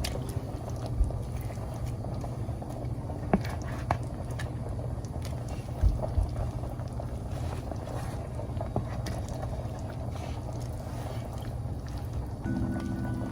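Pot of creamy chicken sauce cooking, a steady low rumble broken by a few sharp clinks of a utensil against the pot.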